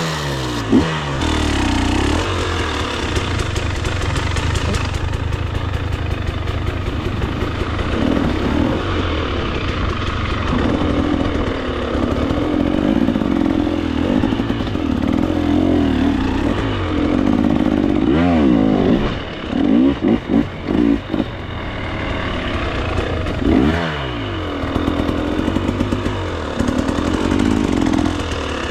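KTM 300 XC-W two-stroke dirt bike engine being ridden on a trail, revving up and down as the throttle is opened and closed. Past the middle the throttle is chopped and reopened several times in quick succession.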